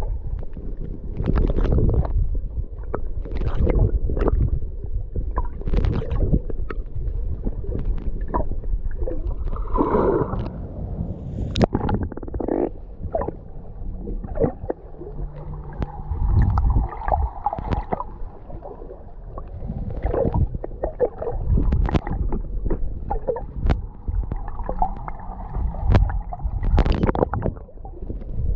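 Seawater sloshing and splashing right at the microphone while swimming, a muffled low rumble broken by many irregular splashes.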